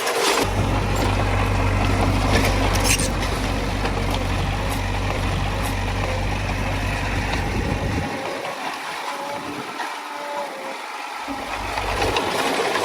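Heavy diesel earthmoving machinery running under load, a deep steady engine note with occasional sharp clanks of metal and rock. The deep note drops away for a few seconds about two-thirds of the way through, then comes back.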